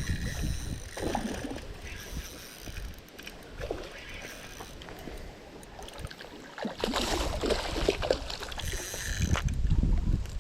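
Water splashing and sloshing as a hooked European carp is fought in the water, heaviest from about 7 s to near the end, with wind rumbling on the microphone.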